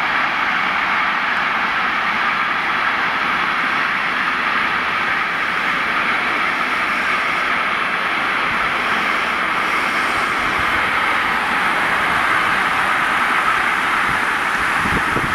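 Long container freight train running past, its wheels on the rails making a steady, even noise.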